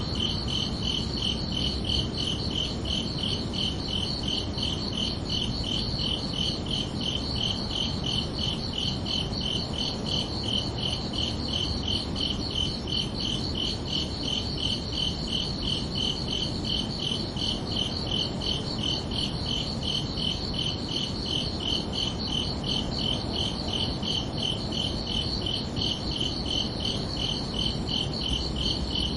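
Crickets chirping in a continuous, evenly pulsed trill at two high pitches, over a steady low background hiss.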